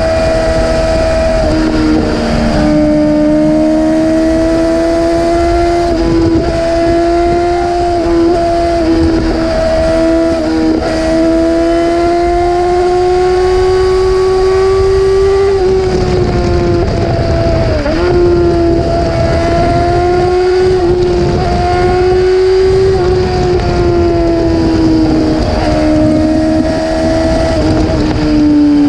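Yamaha R6 inline-four sport-bike engine running at high revs with a high, steady pitch. The pitch climbs slowly over long stretches and dips briefly several times before picking up again.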